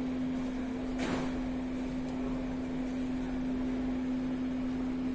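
Metro station platform ambience: a steady mechanical hum with a constant low drone over background noise, and a single brief click about a second in.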